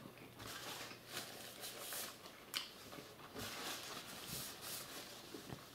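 Faint chewing of a mouthful of chicken sandwich, with soft scattered rustles; a paper napkin wipes across the mouth about three and a half seconds in.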